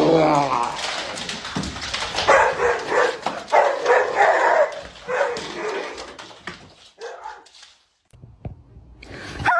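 A dog barking and whining in a run of pitched, bending calls in several bursts, fading out in the last few seconds.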